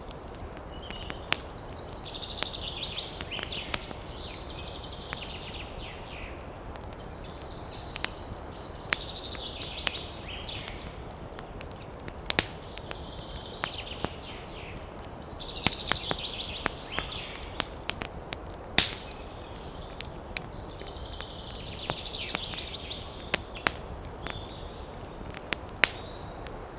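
Campfire crackling, with sharp irregular pops over a steady rush of wind. A high chirring call comes and goes about four times, each lasting a few seconds.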